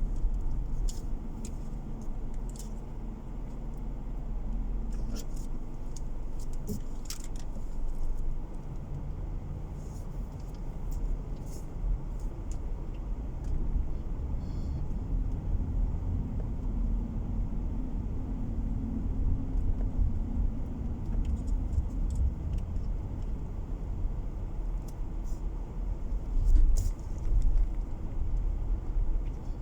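A car driving along, heard from inside the cabin: a steady low rumble of engine and tyres that drifts slightly in pitch, with scattered small rattling clicks.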